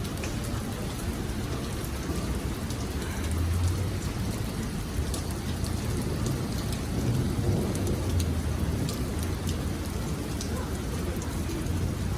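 Heavy thunderstorm downpour: steady rain with individual drops ticking close by. Low rumbles of thunder swell up a few seconds in, again around the middle and near the end.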